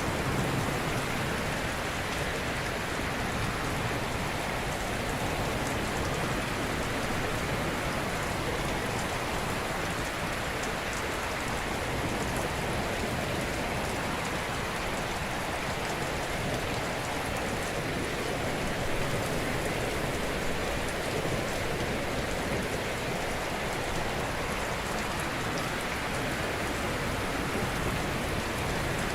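Ocean waves breaking gently on a shore: a steady, even wash of surf.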